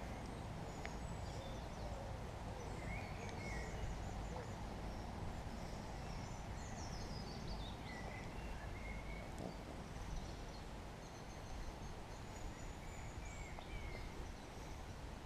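Small songbirds chirping and singing in short, scattered phrases, several calls overlapping, over a steady low background rumble.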